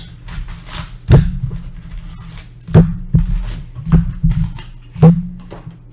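Cardboard hobby box being handled and opened on a table: about six loud thumps and knocks, a second or less apart.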